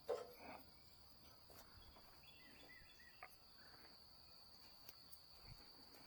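Near silence with a faint, steady, high-pitched insect trill, like crickets, and a short knock right at the start.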